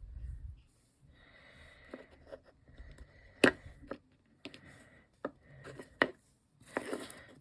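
Small objects being handled on a work table: soft rustling and scraping broken by light taps and clicks, with one sharp click about three and a half seconds in and another about six seconds in.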